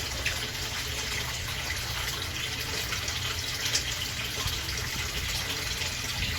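Steady running, splashing water at a koi pond, with a low rumble underneath.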